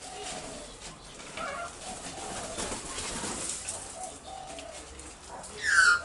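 Birds calling in an aviary: a scatter of soft, low calls, then a louder call that falls in pitch near the end.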